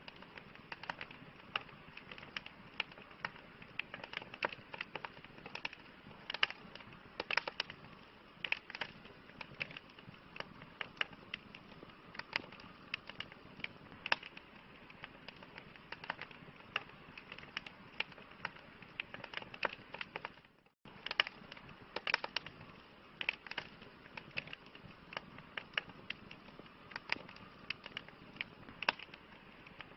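Wood campfire crackling: irregular sharp pops and snaps over a steady low hiss of burning, with a split-second dropout about two-thirds of the way through.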